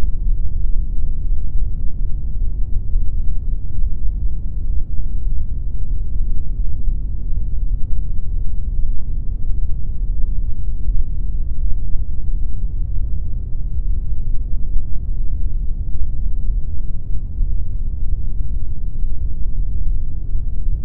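Steady synthetic pink noise, an even, unbroken wash that is deep and dark in tone, with most of its weight in the lows and almost no high end.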